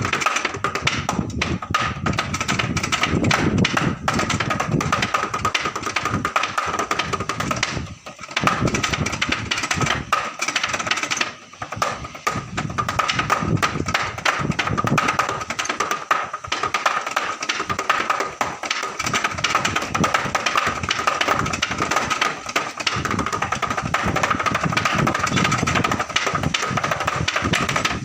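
Drumsticks played fast on a drum practice pad: continuous rapid strokes and rolls with a ringing tone, breaking off briefly twice, about a third of the way in.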